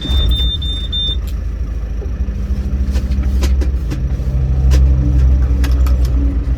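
Land Rover Defender 300Tdi four-cylinder turbodiesel running under load, a loud low rumble heard from inside the cabin, its engine note growing stronger about four seconds in. A short high beeping sounds in the first second, with a few sharp clicks later.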